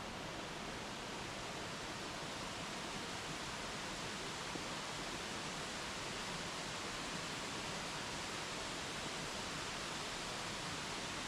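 Steady, even rush of water pouring down a cascade of Crabtree Falls.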